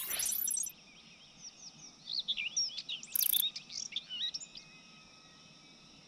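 Several forest birds chirping and whistling in quick, overlapping calls, busiest in the middle, then dying away to a faint steady background. A louder sound fades out right at the start.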